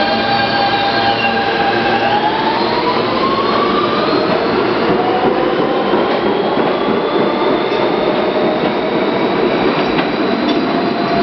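Interior of an R160B subway car in motion: steady wheel-and-rail noise under the whine of the traction motors, which climbs in pitch about two seconds in.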